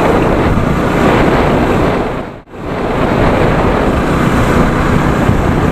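Wind buffeting the microphone on a moving motorbike, a loud steady rush of noise with road noise underneath; it drops out briefly about halfway through.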